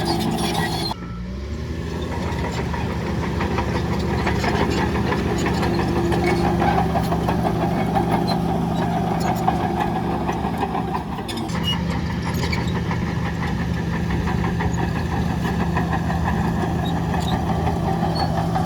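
Heavy diesel engine of earth-moving machinery running steadily. Its note dips briefly about a second in and again near the middle, then settles back.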